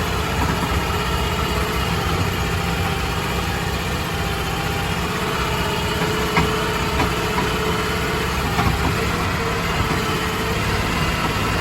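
Crawfish boat's engine running steadily as the boat moves through the pond, with a few light knocks past the middle of the stretch.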